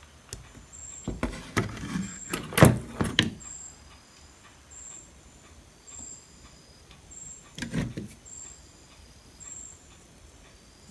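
Clicks, knocks and rattles of tools and parts being handled on a workbench, in a cluster from about a second in to three seconds and again near eight seconds. A faint high chirp repeats under them.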